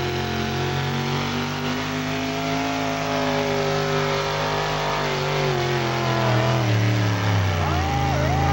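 Diesel pickup truck engine running hard under load in a truck pull. Its pitch holds fairly steady, then falls about seven seconds in as it comes off the throttle.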